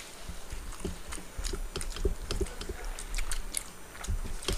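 Close-up chewing and eating sounds of people eating rice and chicken fry by hand, with many short mouth clicks and smacks scattered throughout.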